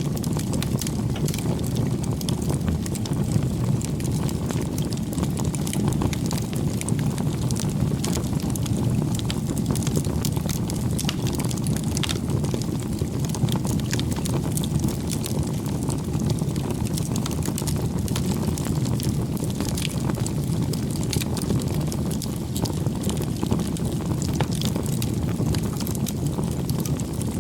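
Bonfire burning: a steady low rush of flames with frequent small crackles and pops.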